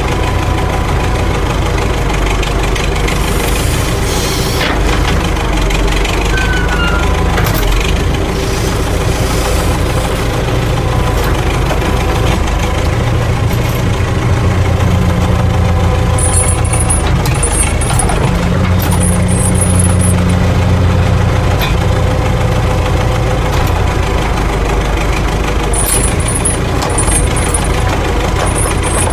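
A vehicle engine running steadily, its low drone shifting in pitch now and then.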